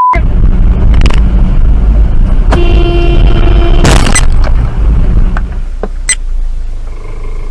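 Loud, steady low rumble of road traffic, with a car horn blowing for just over a second around the middle. Several sharp knocks are scattered through it.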